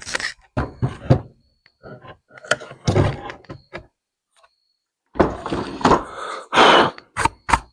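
Knocks and thunks of parts and tools being handled on a workbench, with a longer scraping or rubbing stretch about five seconds in, then a run of quick clicks near the end.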